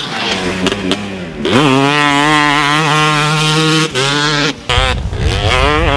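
Yamaha YZ250 single-cylinder two-stroke motocross engine, with a Pro Circuit hand-ported cylinder, revving as the bike is ridden. The pitch climbs and falls with the throttle, and the note cuts out briefly a little past the middle. A heavy low rumble joins it for the last second or so.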